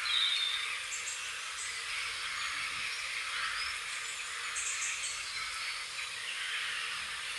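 Small birds chirping over a steady outdoor hiss: a short falling note at the start, then brief high chirps about a second in and again around four and a half to five seconds in.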